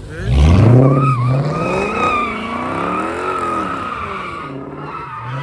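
A car's engine revving up hard, then its tyres squealing in a long, wavering screech as the car slides in a drift, the engine note holding under the squeal.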